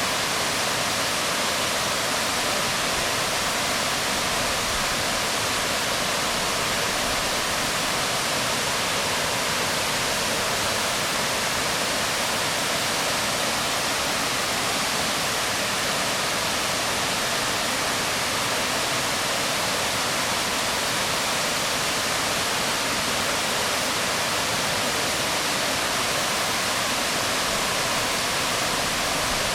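Waterfall pouring onto rocks: a steady, even rush of falling water with no change.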